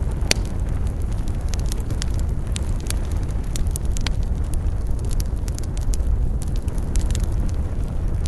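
Wood fire burning: a steady low rumble with frequent sharp crackles and pops of the burning wood, one louder pop just after the start.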